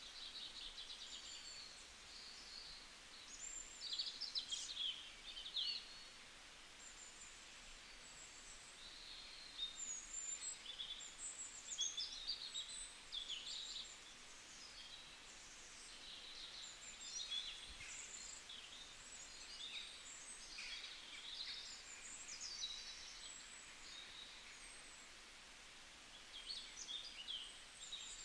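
Wild birds chirping and calling over a faint outdoor hiss: many short, high, fluttering calls come in scattered clusters throughout.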